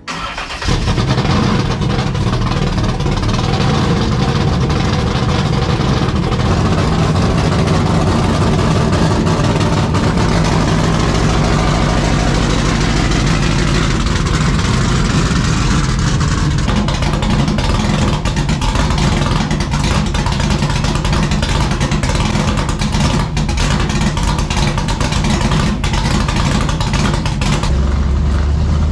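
A vehicle engine running steadily and loudly, without clear revving.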